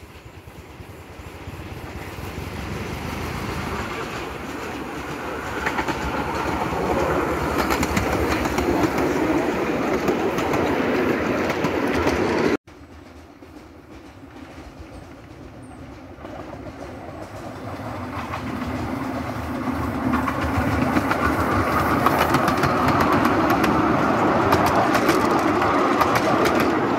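Narrow-gauge train approaching along the track, growing louder, with wheels clattering on the rails. The sound cuts off suddenly about halfway through, then builds again as the train comes up and passes close by near the end.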